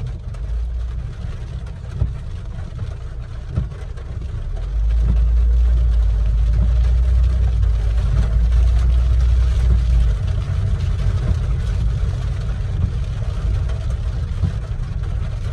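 Inside a moving car in heavy rain: a steady deep road and engine rumble with a hiss over it, swelling louder for about five seconds partway through, with a couple of short knocks early on.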